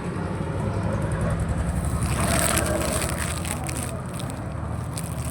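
A steady low engine hum, with a brief noisy burst about two seconds in and scattered sharp clicks in the last second or so.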